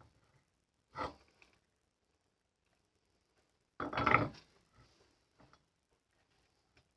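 Steel crank handle and key being worked onto the milling machine's rapid head-feed shaft: a short metallic clank about a second in, a longer, louder scraping rattle around four seconds in, then a few light clicks.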